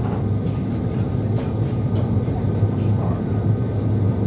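Interior running noise of a CRH6A electric multiple unit under way: a steady low rumble with a strong hum, and scattered sharp clicks from the wheels on the track.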